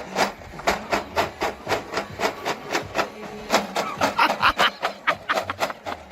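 Something rattled in steady rhythmic shakes, about three a second, to call sheep as if with feed.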